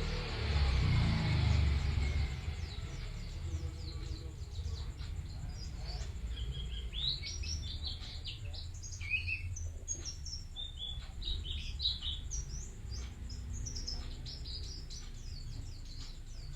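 White-eye (pleci) singing a fast, high twittering song of short chirps, strongest in the second half. A low rumble, the loudest sound, comes in the first couple of seconds.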